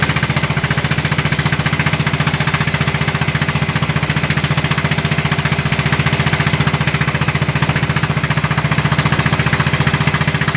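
Single-cylinder diesel engine of a klotok, a small wooden motorboat, running steadily with its fast, even putt-putt beat.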